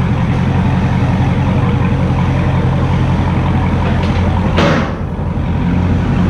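The 6.4-litre 392 HEMI V8 of a 2016 Dodge Charger Scat Pack running steadily at idle, a deep even exhaust note. Midway through comes a brief rushing hiss.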